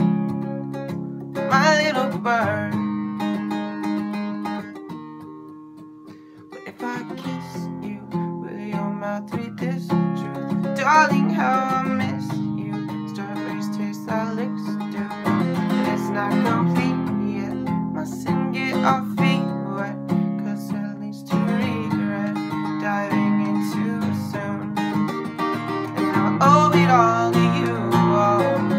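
Acoustic guitar playing the song's instrumental part, strummed and picked chords that fade down about five seconds in and pick back up a couple of seconds later.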